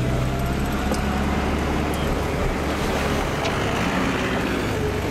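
Car driving along a road, heard from inside: a steady low engine hum under constant road and tyre noise.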